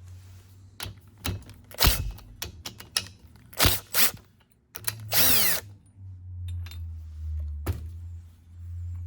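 A handheld power tool spinning fasteners off a motorcycle engine case in short bursts, with metal parts clicking between them. A longer burst about five seconds in winds down in pitch, and a steady low hum runs under the second half.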